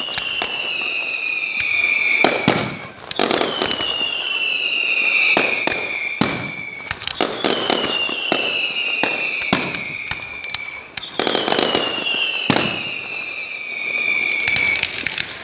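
Fireworks display: four long whistles, each sliding slowly down in pitch over about three seconds and following one another about every four seconds, with sharp bangs and crackling bursts between them.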